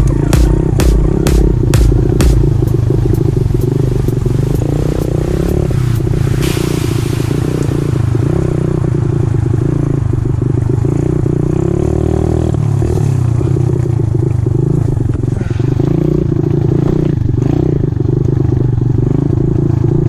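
A 125cc pitbike's single-cylinder engine running steadily under way while ridden off-road, with some clatter from the rough ground. A music beat plays over the first few seconds, then stops.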